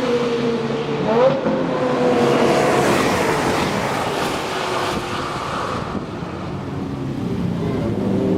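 Lamborghini Murcielago LP670-4 SV's V12 through a loud Reiter exhaust, driving by. Its note falls steadily, with a short blip of revs about a second in. It fades somewhat, then climbs in pitch again near the end as the car accelerates.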